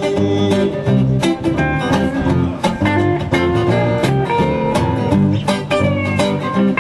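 Live band playing an instrumental passage with no singing: guitar-led country-rock music with a steady beat.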